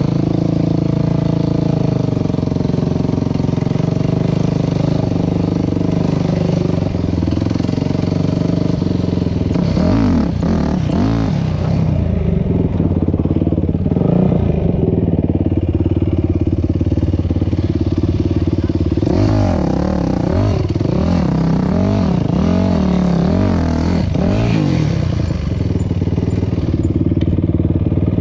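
Dirt bike engine running under way on a trail. Its pitch rises and falls as the throttle is worked, with quick runs of revving about ten seconds in and again around twenty seconds in.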